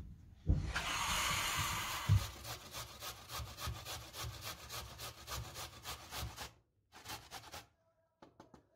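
Rhythmic scraping strokes, a loud rasp at first and then about three strokes a second, stopping after about six seconds, then a short second run and a few light taps.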